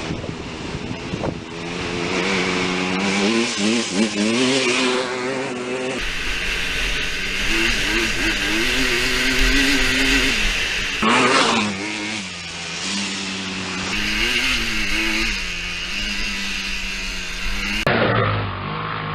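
Honda TRX250R's single-cylinder two-stroke engine running and revving, its pitch rising and falling again and again as the throttle is worked.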